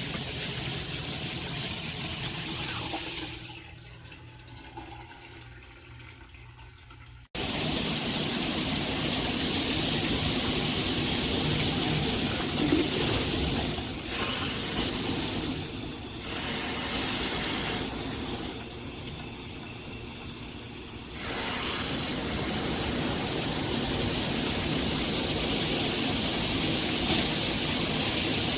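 Water spraying steadily from a Hibbent all-metal shower head. The rush drops away for a few seconds about three seconds in, comes back abruptly, and weakens briefly a few more times.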